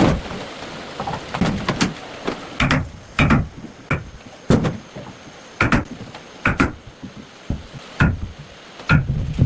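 A series of sharp knocks, a dozen or so at uneven intervals of roughly half a second to a second.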